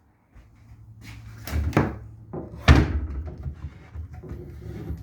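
Boat cabin fittings being handled and shut: a few knocks and bangs, the loudest about two and a half seconds in.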